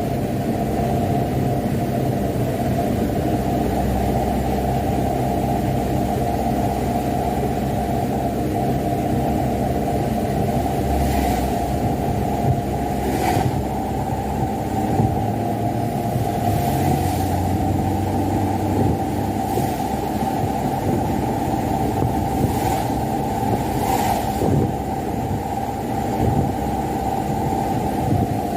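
Mitsubishi Canter dump truck's diesel engine and road noise, a steady drone as it drives loaded with wet sand, with a few brief knocks or rattles along the way.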